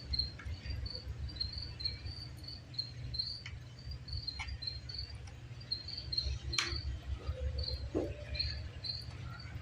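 A cricket chirping steadily in short, high, evenly spaced chirps, about one and a half a second. A few sharp clicks and knocks from hand tools on the generator's metal are heard over a low rumble.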